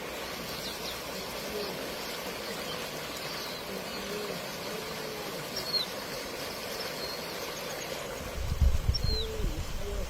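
Birds chirping a few times over a steady outdoor background hiss, with low buffeting on the microphone starting near the end.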